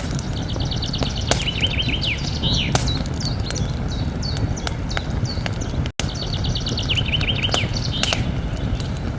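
Campfire crackling with frequent sharp pops over a steady low rumble, while a songbird twice sings a phrase of rapid repeated notes. The sound cuts out for an instant about six seconds in.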